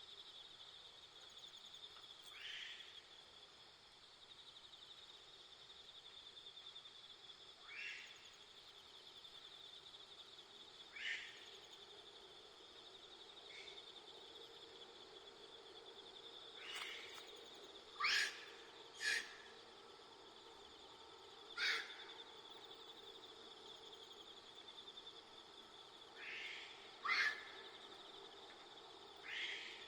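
Monkeys giving short, high, rising calls, a dozen or so, scattered at first and then coming close together around the middle and again near the end, over a steady high insect trill.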